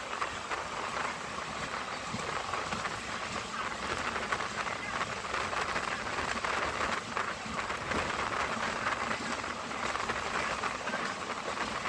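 Steady rushing noise of a passenger train running at speed, heard from aboard: wheels on the rails and wind, with no clear wheel-beat.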